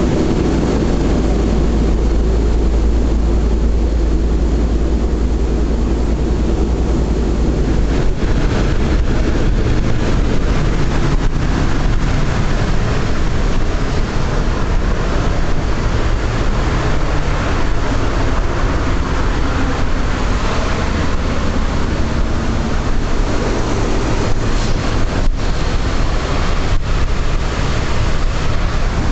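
Boeing B-17 Flying Fortress's four Wright R-1820 Cyclone radial engines droning steadily. The deep engine tone shifts about eight seconds in.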